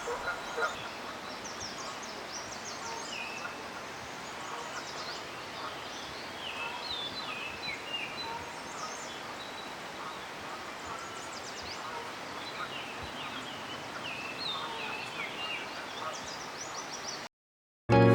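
Wild birds chirping and calling outdoors: many short, varied high notes and little zigzag phrases over a steady background hiss. The sound cuts off abruptly near the end.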